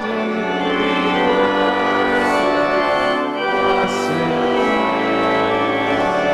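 Church organ playing sustained hymn chords, the chords changing every second or so.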